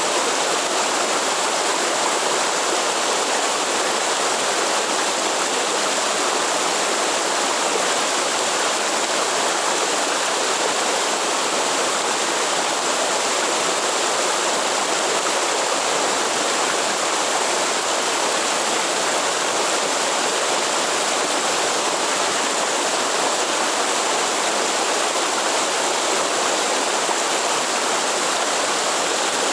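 Waterfall and rushing stream water, a steady even rush with no breaks.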